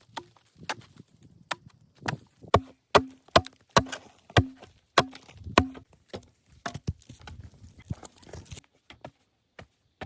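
An axe chopping into wood: a run of about seven sharp blows, roughly two a second, each with a short ringing tone after it. Lighter knocks come before the run, and rustling and crackling of wood follow it.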